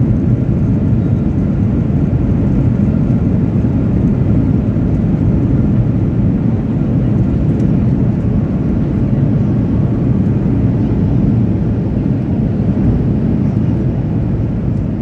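Cabin noise inside a Boeing 737-800: a steady, loud low rumble of its CFM56-7B jet engines and airflow, easing slightly near the end.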